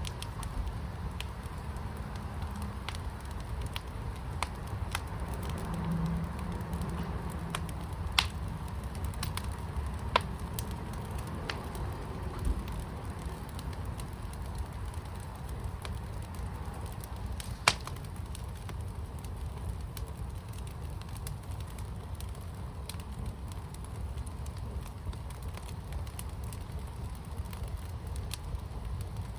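Fire in a fire pit burning over a steady low rumble, with scattered crackles and a few sharp pops standing out.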